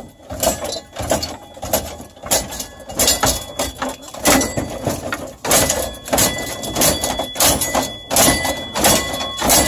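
Rapid, irregular banging, cracking and rattling of a pickup truck's dashboard being pried and broken apart, many hits and snaps a second with louder bursts throughout.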